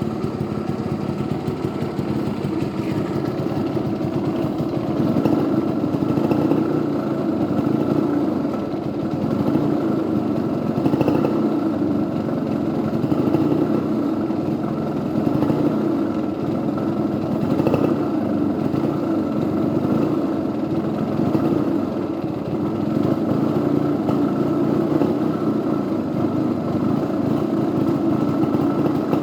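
Yamaha RD50's small single-cylinder two-stroke engine running near idle, with small rises in speed now and then. The owner says it won't rev freely and suspects a crankcase (primary compression) leak.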